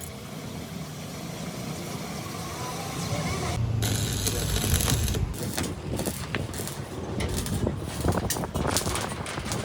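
Fabrication-shop noise: a low rumble builds up, then a loud noisy burst just under halfway through, followed by many irregular sharp knocks and clatter.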